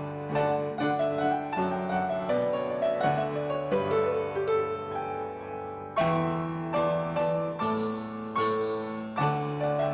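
Solo piano playing, with chords and melody notes struck and left to ring and decay, and a loud full chord about six seconds in.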